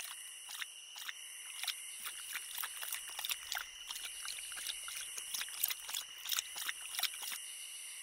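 Iberian lynx lapping water from a pond: a run of soft, irregular clicks, a few a second. Steady high chirring of night insects runs underneath.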